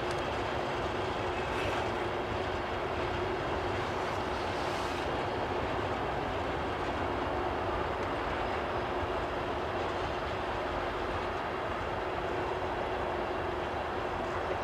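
CSX manifest freight train rolling past at steady speed: its rebuilt diesel locomotives and then a string of loaded gondolas and hoppers, giving a continuous, even rumble of wheels on rail.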